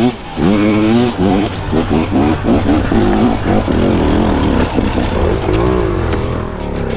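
Two-stroke single-cylinder dirt bike engine of a KTM 300 XC-W, revved up and down in quick throttle bursts, its pitch rising and falling again and again as the bike picks its way through technical terrain.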